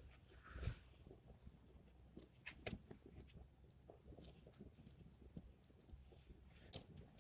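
Faint crackling of a small wood fire: scattered sharp pops and ticks, a few a second apart, over a very quiet low rumble.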